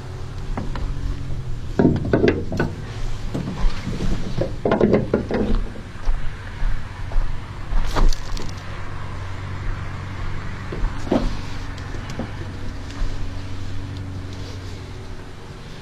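Ratchet straps being worked over plastic skiffs in a pickup bed: scattered knocks, clatters and scrapes of strap hooks, webbing and hulls, over a steady low hum.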